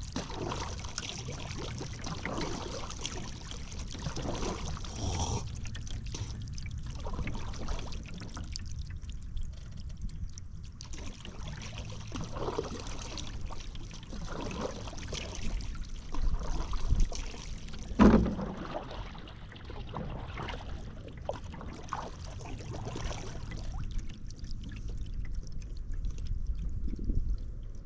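Paddle strokes in river water, with splashing and water trickling off the blade, in an uneven rhythm. A single sharp thump, the loudest sound, comes about two-thirds of the way through.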